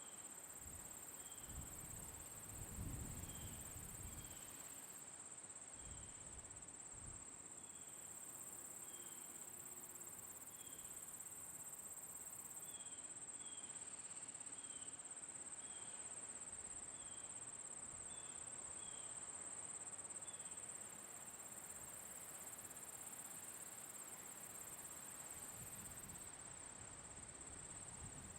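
Summer crickets chirring in a steady, faint, high-pitched trill, with short higher chirps repeating about once a second. Low rumbles come and go a couple of seconds in and again near the end.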